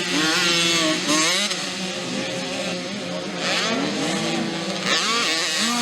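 Several 50cc mini motocross bikes racing, their two-stroke engines revving up and down at different pitches at the same time.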